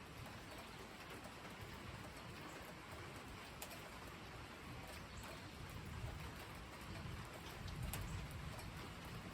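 Steady rain falling, with scattered drips ticking, and a low rumble of distant thunder swelling about six seconds in.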